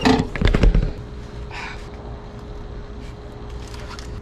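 A quick burst of sharp metallic knocks and clatter in the first second, as something in the truck door gives way during window motor work and catches a finger. Then a low steady background with a faint hum.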